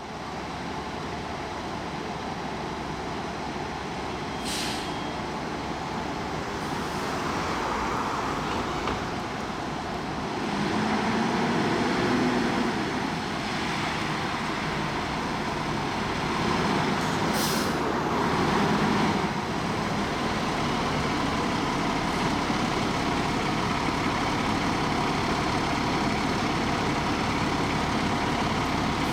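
Street traffic noise dominated by a heavy vehicle's engine, with two short air-brake hisses, one about four seconds in and another about seventeen seconds in.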